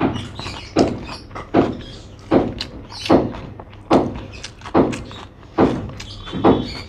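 Chewing a mouthful of rice and chicken curry: a dull thump at each chew, about one every 0.8 seconds, in a steady rhythm.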